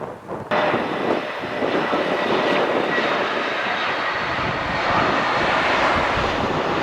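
Airbus A320neo jet engines running as the airliner comes in to land: a loud, even rush with a faint steady whine, starting abruptly about half a second in and swelling slightly toward the end.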